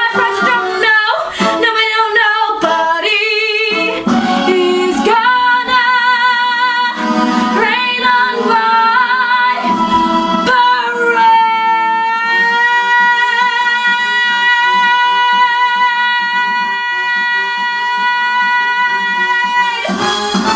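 A woman singing with musical accompaniment, moving through a fast phrase and then holding one long high final note with vibrato for about nine seconds before the band comes in at the end.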